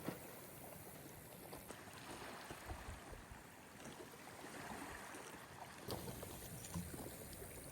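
Faint lakeside ambience: water lapping gently at the shore, with a few scattered light clicks and knocks.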